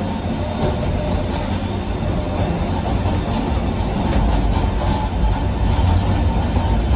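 Inside a Sangi Railway Hokusei Line 762 mm narrow-gauge electric motor car under way: a steady rumble of wheels on rail and running gear, with a few faint knocks about four seconds in.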